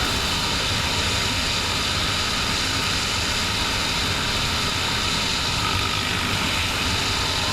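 Motorcycle engines running steadily under a rush of wind noise, with no clear changes in pitch or level.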